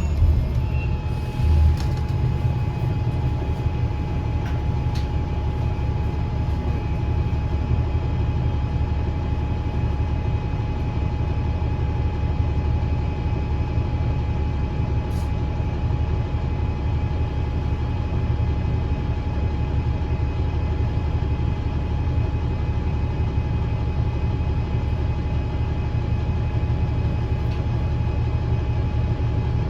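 2009 Gillig BRT 40-foot transit bus's engine and Voith transmission running steadily, heard from inside the bus, with a low rumble and a thin whine held at one pitch.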